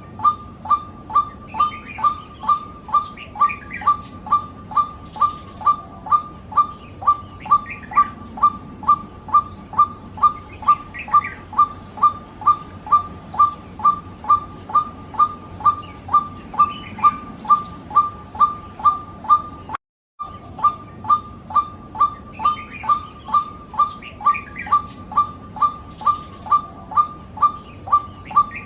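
White-breasted waterhen calling: a long, monotonous series of short, clipped notes at about three a second. The series breaks off briefly about twenty seconds in, then goes on. Fainter, higher call notes sound behind it.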